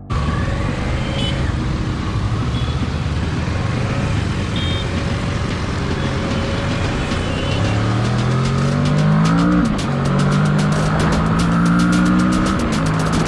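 Kawasaki ER-6n's parallel-twin engine accelerating hard, with heavy wind rush. The revs climb, drop at a gear change about ten seconds in, then climb again and dip near the end.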